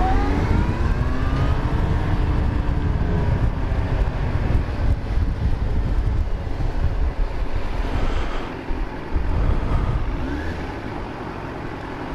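Yamaha FZ1 inline-four motorcycle engine revving up as it pulls away and shifting up, then running at a steady lower pitch, with heavy wind rumble on the helmet microphone. A second brief rev comes about ten seconds in.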